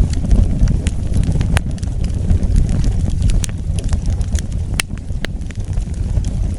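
Wood fire burning with a steady low rumble of flame, broken by irregular sharp crackles and pops of the burning logs, a handful of them loud.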